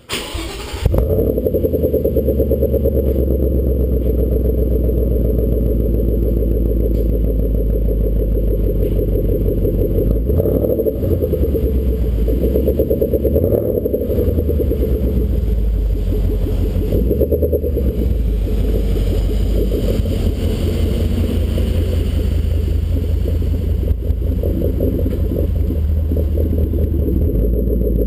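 Ford Mustang GT's 5.0 V8 through a Roush axle-back exhaust, starting up about a second in and then idling with a steady, deep rumble, swelling slightly a few times around the middle.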